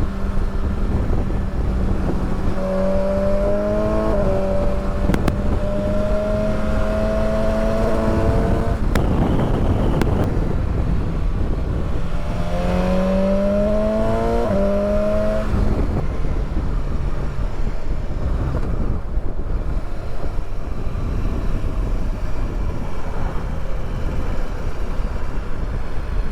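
Motorcycle engine pulling hard through the gears twice, its pitch climbing and dropping at each upshift, over a steady rush of wind noise.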